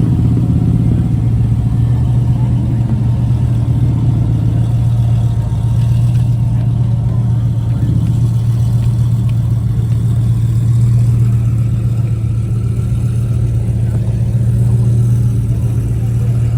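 A car engine running steadily with a deep, even drone that swells slightly now and then.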